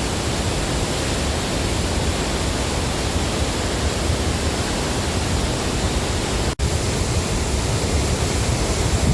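Rushing water of the Tännforsen waterfall: a loud, steady roar of white water, broken by a momentary dropout about six and a half seconds in.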